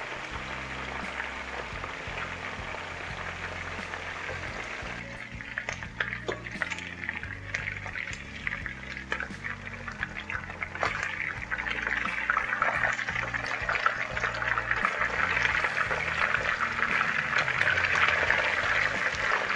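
Chicken pieces frying in hot oil in a pot: a steady sizzling hiss. From about five seconds in, many small crackles and pops join it, and it grows louder toward the end.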